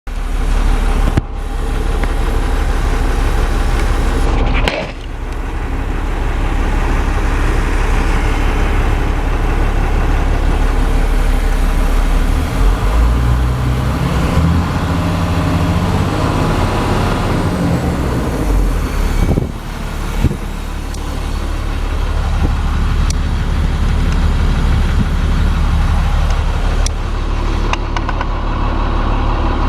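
International diesel truck engine running steadily at idle, with a stretch about halfway through where the low engine note gets louder and rises slightly, as if briefly raised off idle.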